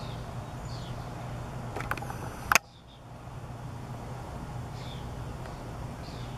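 Small birds giving short, falling chirps now and then over a steady low hum, with a sharp click about two and a half seconds in.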